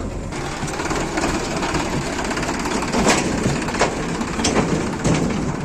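JCB 3DX backhoe loader at work: the diesel engine running under a steady grinding clatter, with several sharp metallic clanks in the second half.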